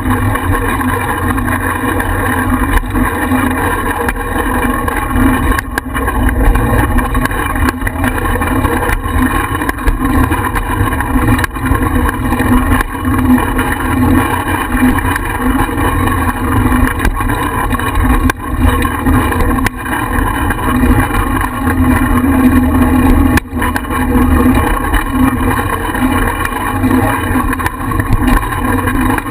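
Steady rumble and rush of riding, with a constant hum, picked up by a GoPro mounted on a bicycle.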